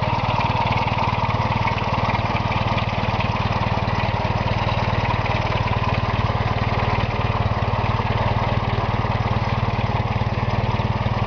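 1947 Empire Model 90 tractor's Willys four-cylinder engine running steadily at an even speed, with a fast, regular firing beat. It is fresh from a rebuild and sounds good.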